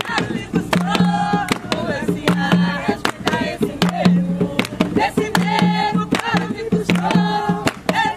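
Jongo music: voices singing over a steady pattern of hand-drum strokes.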